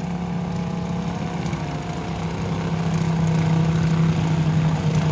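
Tractor engine running steadily, growing louder about three seconds in.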